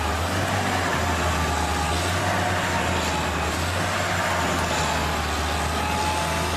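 Tractor engine running steadily, a constant low drone with a wash of noise over it.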